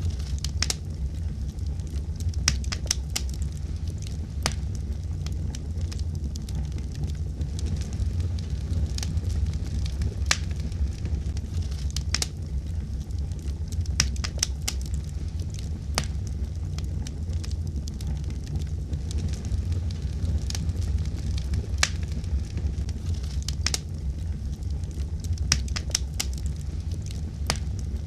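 Wood fire in a fireplace burning steadily, with a low rumble and irregular sharp crackles and pops.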